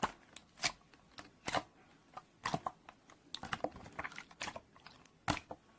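Keyboard typing: a string of short, irregularly spaced taps, some in quick clusters, with brief silent gaps between them.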